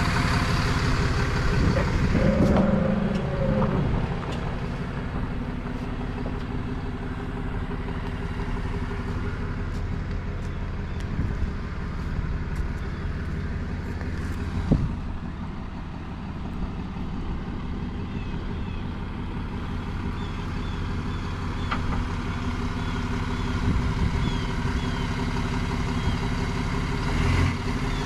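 Heavy tow truck's engine running steadily at low speed while maneuvering, with a few brief knocks.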